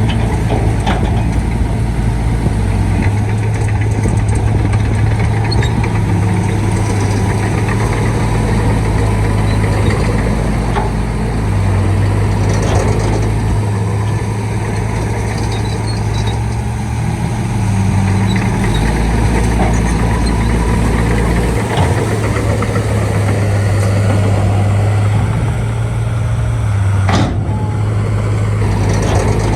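Shantui D95 bulldozer's diesel engine running steadily under load, its note shifting up and down every few seconds as it works, with a single sharp clank near the end.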